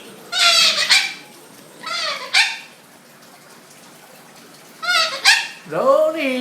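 A young pet cockatoo calling in four short pitched bursts spread over a few seconds, the last held longer as a steady note.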